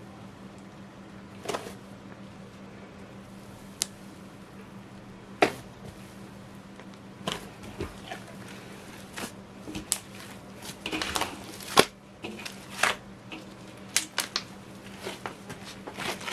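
Large batch of slime kneaded and squeezed by hand: irregular wet squishes and sharp sticky pops and clicks, busiest and loudest about eleven to twelve seconds in.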